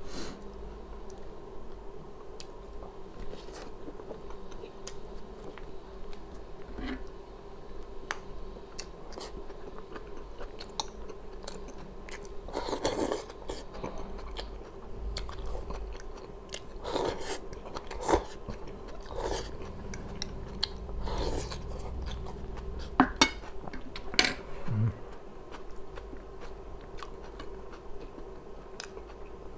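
A person chewing and biting food close to the microphone, with wet mouth clicks and a handful of louder crunchy bites scattered through, over a faint steady hum.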